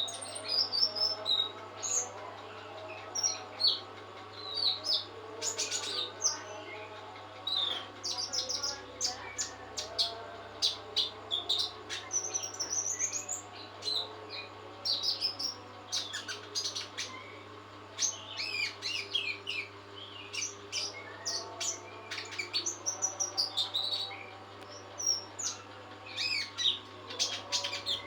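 Caged songbird, a nectar-fed 'trotol', singing vigorously in a continuous run of quick, high chirps and trills, over a low steady hum.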